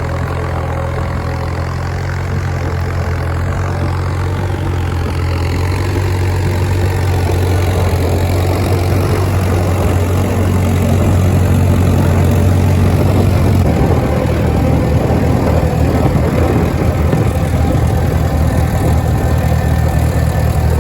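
Case DC tractor's four-cylinder engine running steadily, gradually getting louder; about two-thirds of the way through its even hum turns rougher and noisier.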